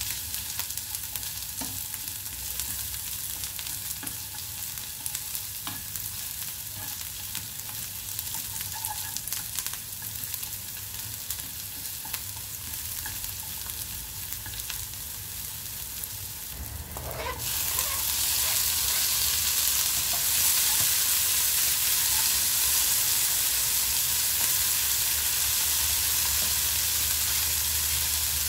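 Chopped onion and garlic sizzling in oil in a nonstick pan, stirred with a wooden spatula that gives small scraping taps. A little past halfway the sizzle grows suddenly louder and hissier, and by the end diced tomatoes are frying with the onions.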